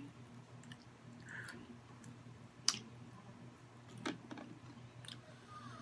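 Close-miked chewing and mouth sounds of fried food being eaten, quiet, with a few sharp wet clicks, the loudest about two and a half seconds in and another about four seconds in.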